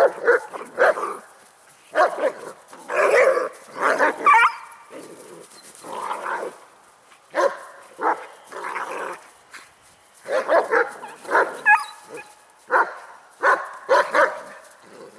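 Dogs barking and snarling in a scuffle, in quick rough bursts about once a second, with a few higher-pitched cries near 4 seconds and 11 seconds in: two German Shepherds are putting a young Beagle in its place.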